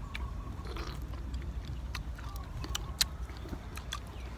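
A person biting into and chewing soft ripe fruit close to the microphone: wet mouth sounds with scattered sharp clicks, the loudest about three seconds in.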